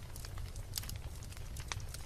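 Wood logs burning in a fireplace, crackling with frequent irregular sharp pops over a low steady rumble of the flames.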